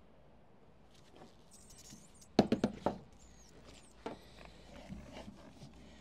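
A quick run of about five sharp knocks and clatter about two and a half seconds in, the loudest sound, followed by a few fainter knocks: tools and lead being handled during leadwork.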